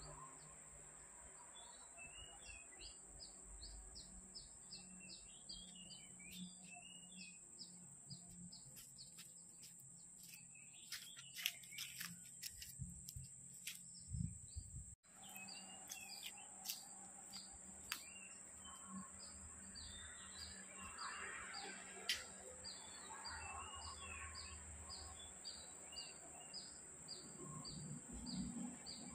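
Faint outdoor ambience of birds chirping, with a short high note repeated about twice a second over a steady high-pitched hum, and scattered sharp clicks about midway.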